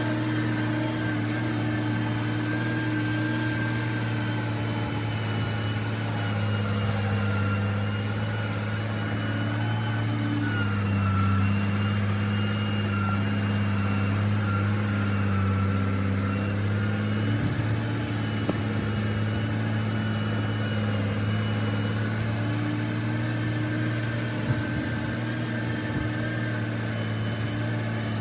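Heavy construction machine's engine running steadily, its pitch shifting slightly a couple of times as the load changes.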